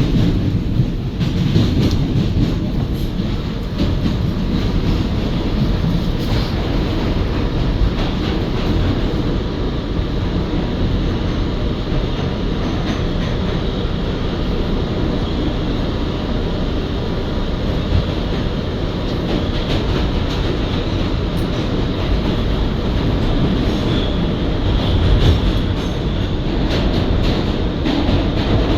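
R211A New York City subway car running between stations, heard from inside the car: a steady rumble of wheels on rail with clicks over rail joints. A short, high wheel squeal comes about three-quarters of the way through.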